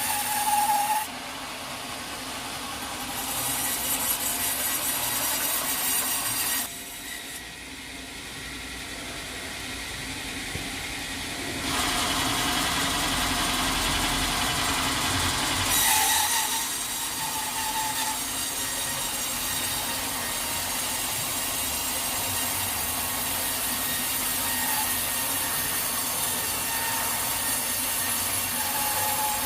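Sawmill saw running and cutting through a teak log: a steady machine and sawing noise that shifts abruptly in level and tone several times.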